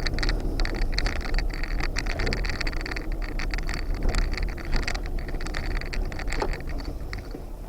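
Off-road vehicle crawling along a rough trail: a steady low engine rumble under a dense run of irregular clicks and scrapes, thinning out near the end.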